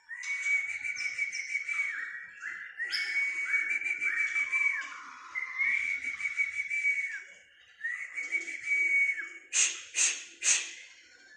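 High whistled bird-like song: a held note with a run of quick falling slurs, in short phrases with brief gaps, then three sharp clicking notes near the end. A lure sound meant to set a white-rumped shama singing along.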